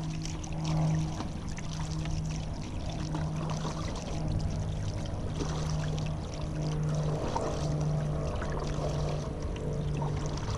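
Kayak paddle strokes with water dripping and splashing off the blades. A low, pitched hum pulses on and off about once a second underneath.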